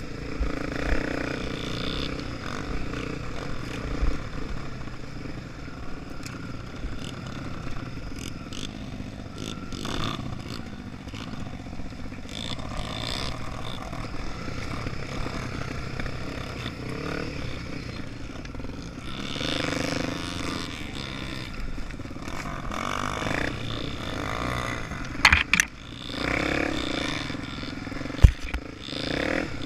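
Honda Tornado 250's single-cylinder four-stroke engine running under way, its pitch and level shifting as the revs change, with a couple of sharp knocks near the end.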